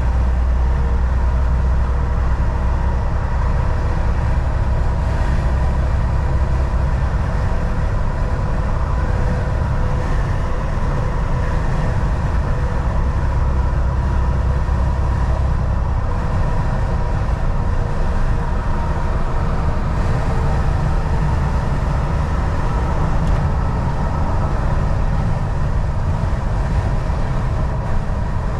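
Volvo VNL 760 semi truck cruising on the highway: a steady engine drone and deep rumble with road noise, the low rumble swelling briefly at the start and again about halfway through.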